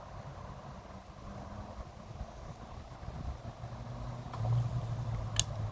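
A low, steady engine hum over wind rumble on the microphone, growing louder about four seconds in, with one sharp click near the end.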